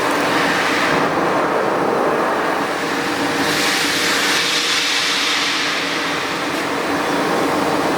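Flux-cored arc welding on carbon steel: the arc's steady crackling hiss, with a steady hum underneath. The hiss turns brighter and sharper from a few seconds in until near the end.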